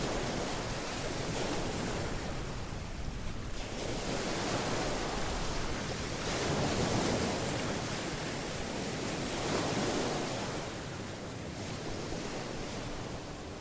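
Atlantic Ocean waves washing onto the shore, surging louder about three times and easing between, with wind rumbling on the microphone.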